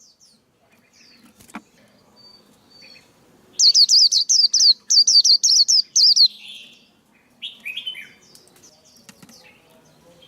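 Male white-eye singing a lure song: a fast run of high, twittering notes starts about three and a half seconds in and lasts some two and a half seconds. A short burst of lower chirps follows near eight seconds, with quiet gaps on either side.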